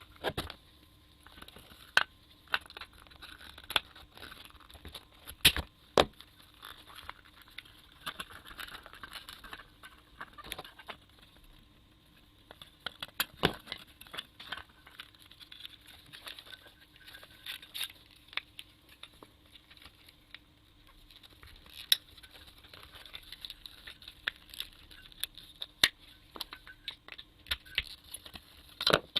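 Hands taking apart a small water circulation pump motor: irregular clicks, taps and scrapes of small parts being handled, with rustling and crinkling between them.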